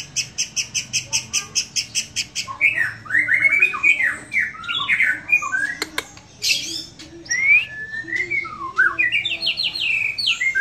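White-rumped shama (murai batu) singing its relaxed song: a quick run of repeated high notes, about seven a second, for the first two and a half seconds, then varied whistled phrases that slide up and down in pitch.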